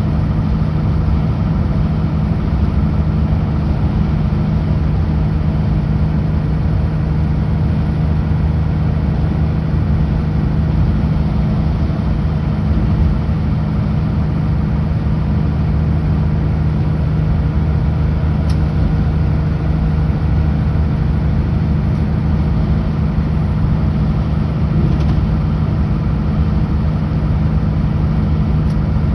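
Kenworth W900L semi truck's diesel engine running at a steady highway cruise, a constant low drone with road noise.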